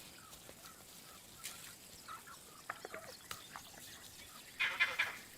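Faint, repeated short bird chirps, then near the end a burst of loud, harsh, rapid animal calls.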